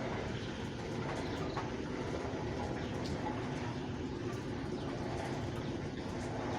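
Steady rain falling, with many small drop ticks, and a dove cooing beneath it.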